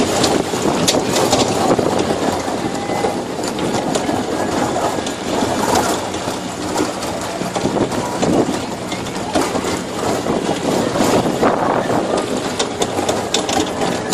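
Tractor engine running steadily as it tows the barrel-train ride, with constant rattling and clatter from the barrel carts.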